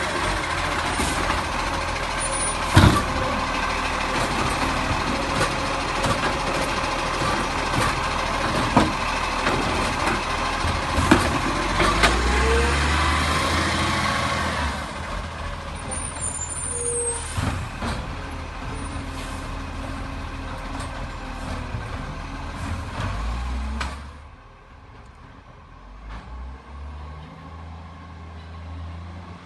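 Garbage truck running, with a steady engine and several sharp clanks and knocks. The sound drops suddenly about 24 seconds in, leaving a quieter low engine.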